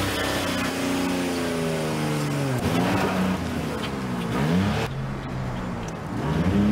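Small, worn-out hatchback's engine revving, its pitch swooping down and back up several times as the car pulls away.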